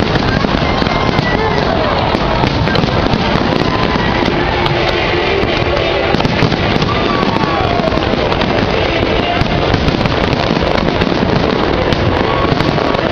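Fireworks display: a steady, dense barrage of crackles and bangs, with voices and music mixed in underneath.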